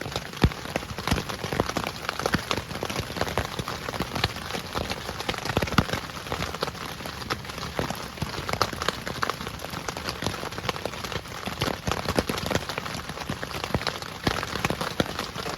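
Heavy rain falling steadily, a dense stream of sharp, irregular drop hits on a surface close by.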